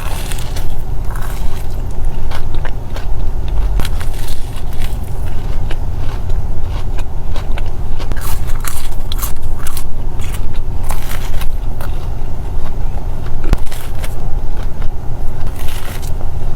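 Close-up chewing and crunchy bites of fried chicken fingers and toast, with sharp crunches scattered throughout over a steady low rumble.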